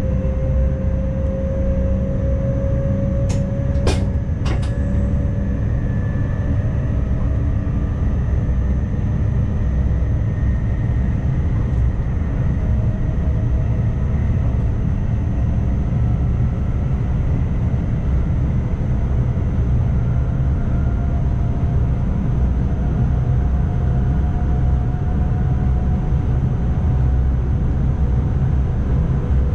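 ICMm electric multiple unit running, heard from the driver's cab: a steady low rumble with a faint whine that rises slowly in pitch. Three sharp clicks come about three to four and a half seconds in.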